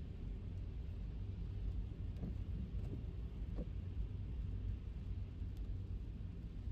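Steady low rumble of tyre and road noise from an electric car driving on a wet road, with a few faint short chirps a couple of seconds in.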